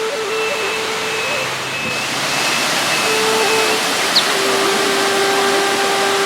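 Waterfall pouring, a loud, steady rushing of water, with sustained notes of background music held over it.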